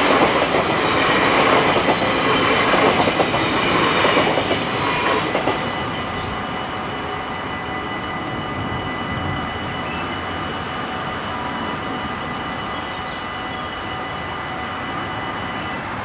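NS VIRM double-deck electric train passing over a level crossing, its wheels running over the rails, dying away about five seconds in. The crossing bells keep ringing steadily after it has gone and stop just before the end, as the barriers lift.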